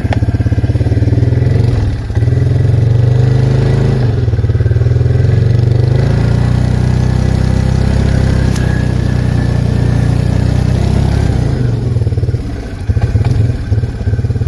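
Arctic Cat 366 ATV engine running under throttle, its pitch rising and falling as it revs. The engine note drops briefly about two seconds in and again near the end.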